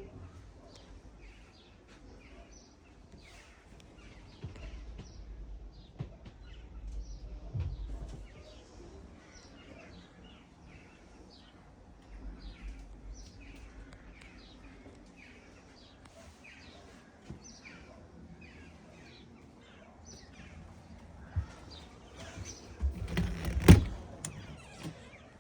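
Birds chirping and singing throughout over a low rumble, with a few knocks and a loud sharp thump near the end.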